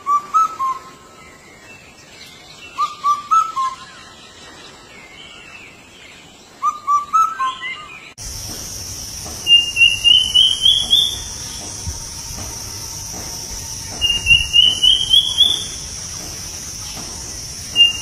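Indian cuckoo calling its short four-note whistled phrase three times, a few seconds apart. About eight seconds in the sound cuts to another bird. It gives a quick rising run of whistled notes three times, over a steady high hiss.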